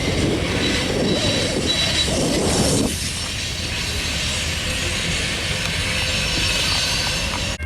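Norfolk Southern freight cars rolling past on the rails, with thin high wheel squeal over the rumble. The heavier rumble drops away about three seconds in, and the sound cuts off abruptly near the end.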